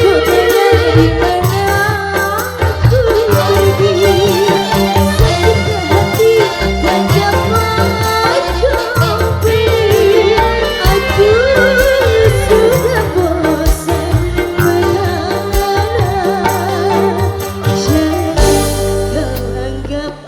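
Live dangdut band playing an instrumental passage: a wavering, vibrato-laden melody over hand drums and bass, loud and continuous.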